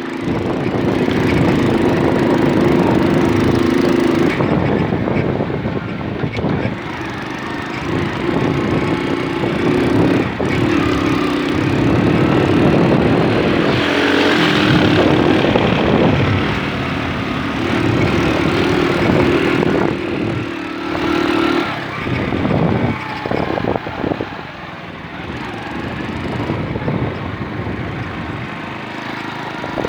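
Moped's small engine running while riding, its note held steady for a few seconds at a time, three times, and falling away in between.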